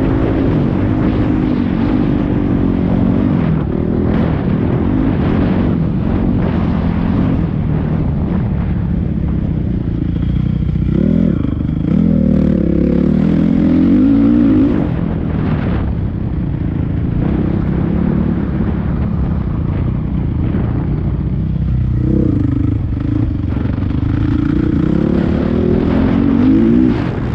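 Motocross dirt bike engine revving hard and backing off again and again as it is ridden around the track, its pitch climbing and dropping with each run.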